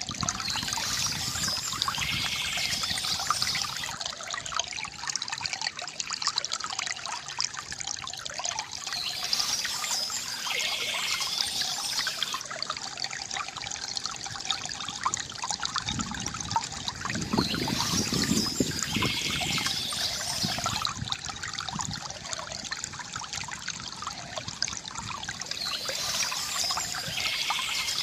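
Water trickling and pouring steadily from a bamboo fountain spout, with bird chirps that come back about every eight or nine seconds.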